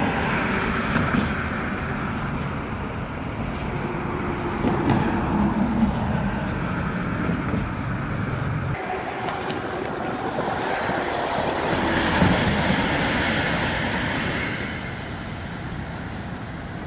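A freight train of refrigerated boxcars rolling past, a steady noisy rumble of wheels on rail. The deep part of the rumble thins out about nine seconds in, and the sound drops a little in loudness near the end.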